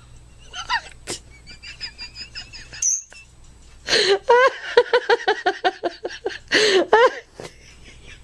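Pet parrot vocalizing: soft chirps and whistles, then about four seconds in a loud run of rapid squawking notes, opening and closing with harsh screeches.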